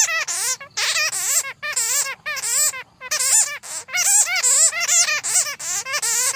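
Bats chattering: quick runs of high, wavering squeaky calls, broken by short pauses about three seconds in and near the end.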